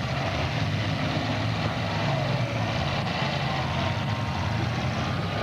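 Demolition derby car engines running, a steady low drone under a wash of noise.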